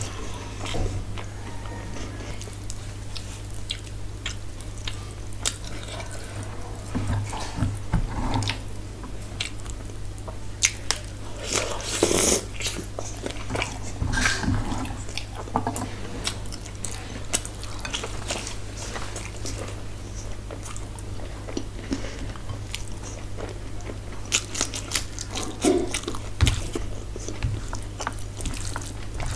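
Close-up eating sounds of a person chewing a mouthful of rice and curry, with many short wet clicks and smacks and fingers squishing the food.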